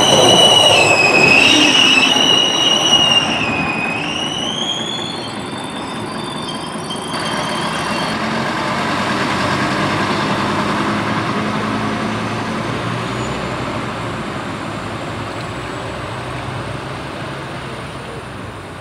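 Stadler RegioShuttle RS1 diesel railcar passing close by with its wheels squealing: a loud, high whine in several tones that wavers and glides up and down, stopping about seven seconds in. After that, the steady running noise and low engine hum of a railcar approaching on the track, swelling and then slowly fading.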